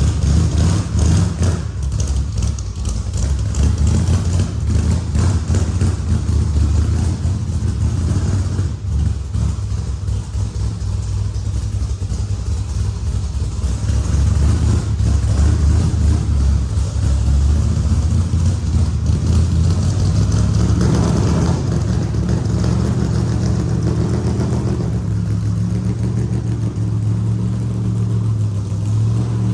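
A vehicle engine running at low speed with a steady low rumble, rising a little in pitch about two-thirds of the way through, as a car is moved around at close range.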